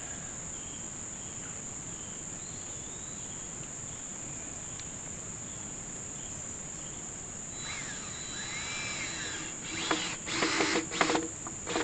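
Steady high-pitched chorus of insects. Near the end, a short run of loud knocking and scraping noises breaks in.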